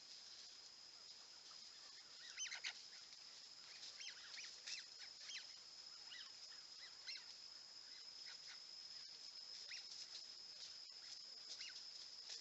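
Faint forest ambience: a steady high-pitched insect hum with scattered short bird calls, the loudest cluster about two and a half seconds in.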